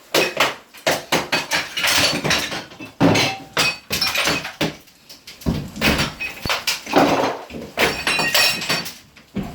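Bathroom demolition: repeated hard impacts and crashes as wall or fixture material is broken out, with clinking and ringing pieces falling.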